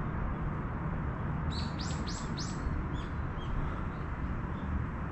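A small songbird calls a quick run of four high notes, each sliding downward in pitch, about a second and a half in, then gives a few fainter short notes. A steady low rumble runs underneath.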